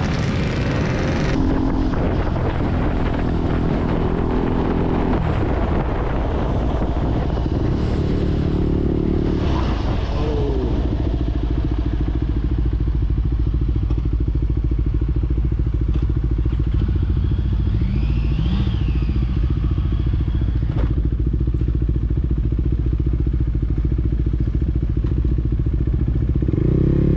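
Motorcycle engine running while riding, its note rising and falling a few times.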